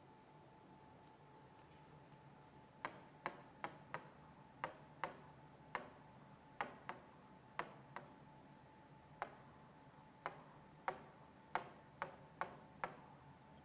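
A run of about eighteen sharp ticks at uneven intervals, starting about three seconds in, over a faint steady hum.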